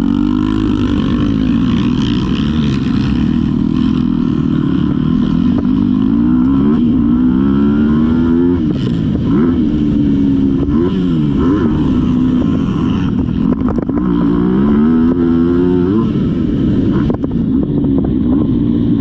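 Motocross dirt bike engine revving hard, its pitch climbing and falling again and again as the rider accelerates, shifts and backs off.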